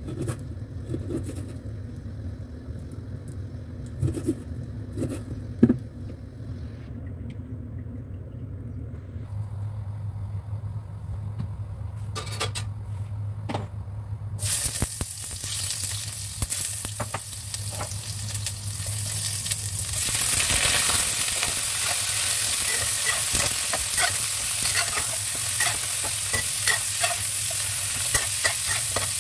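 A kitchen knife cutting beef on a board, a few sharp taps. Then hot oil suddenly starts sizzling in a stainless-steel wok as ginger and garlic go in, and the sizzle grows louder about two-thirds through as beef chunks are fried and stirred with a metal spatula.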